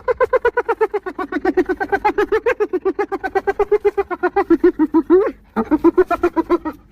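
Spotted hyena giggling: a rapid run of short, pitched notes that each rise and fall, many a second, in one long bout that breaks off briefly about five and a half seconds in before a second, shorter bout.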